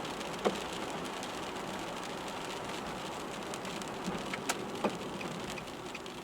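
Rain falling on a car, heard from inside: a steady hiss with a few sharp drop ticks, about half a second in and twice near the end.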